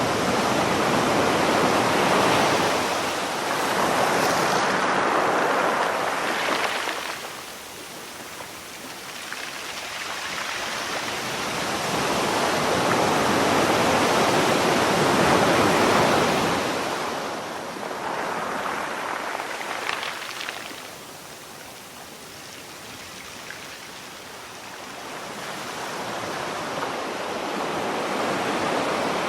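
Sea waves washing onto the shore: the surf swells into a rush and falls away again, three times, roughly every twelve seconds.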